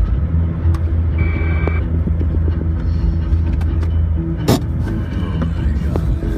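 Jeep Wrangler JK driving, its engine and drivetrain giving a steady low rumble, with scattered small clicks and one sharp knock about four and a half seconds in.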